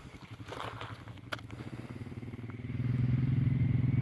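Engine of a small off-road vehicle, narrower than a pickup, running steadily and growing louder about three seconds in as it approaches.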